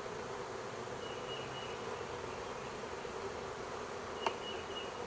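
Steady buzzing of a large honey bee swarm in flight around the hive box, with one sharp click about four seconds in.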